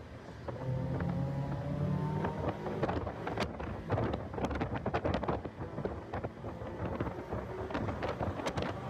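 Car engine pulling hard, its pitch climbing during the first two seconds, heard from inside the car under heavy wind buffeting on the microphone. The buffeting grows into a dense crackling rush about two and a half seconds in and drowns the engine from then on.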